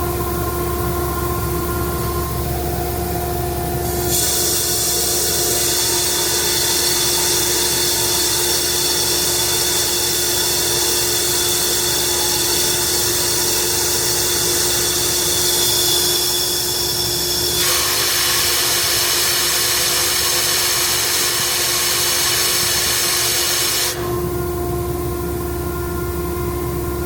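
Ingersoll Rand 50 hp rotary screw air compressor running in modulation mode with a steady hum, joined about four seconds in by a loud rushing hiss of air that cuts off suddenly near the end.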